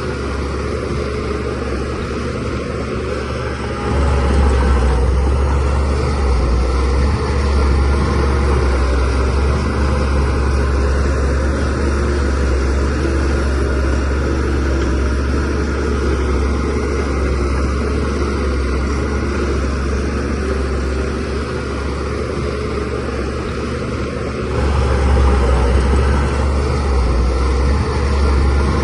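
DH17C3 bulldozer's diesel engine running under load while pushing soil, a steady heavy low drone. It grows louder about four seconds in, eases off a little past the middle, and grows louder again near the end.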